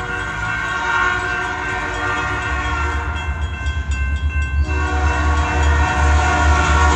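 Diesel locomotive air horn blowing as the train approaches, fading about three seconds in and sounding again strongly just before five seconds. Beneath it, the low rumble of the oncoming train grows louder.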